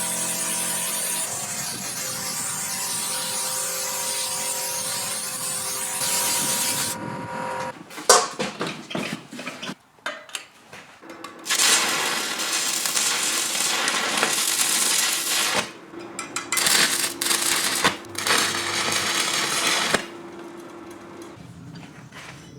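Sandblasting gun hissing in a long steady blast, broken about eight seconds in by a few seconds of knocks and clatter, then blasting again with a low hum under it until it stops near the end.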